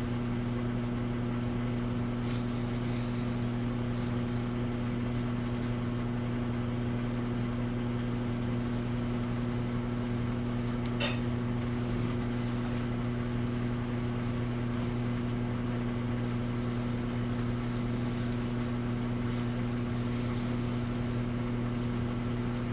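Electrolux Essential Care 11 kg washing machine motor running with a steady, even hum, with a faint click about halfway through.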